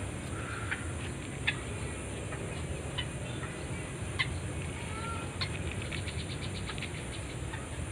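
A bird's short, sharp calls, a few times about a second apart. Then a fast, even ticking begins about two-thirds of the way in, over a steady low background noise.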